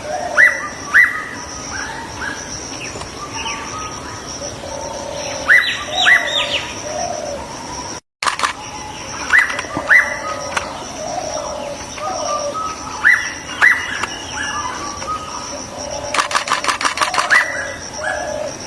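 Birds calling: short rising whistled notes, mostly in pairs a few seconds apart, over a steady high-pitched whine. Near the end comes a fast rattling trill.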